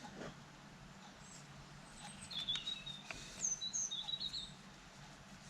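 A small bird chirping and twittering: a string of short, high chirps, some falling in pitch, starting about two seconds in, with a few faint clicks.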